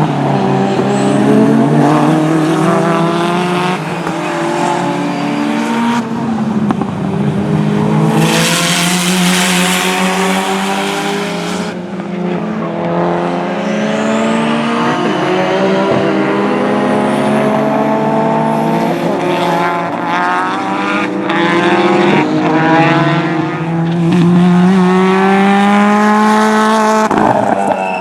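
Time-attack race car engines revving hard on track, pitch climbing through each gear and dropping at the shifts, over and over. For a few seconds about a third of the way in, a loud rushing hiss covers the engine.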